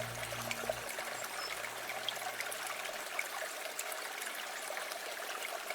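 Shallow stream trickling and babbling over rocks, with small splashes. A low sustained music note fades out in the first second or two.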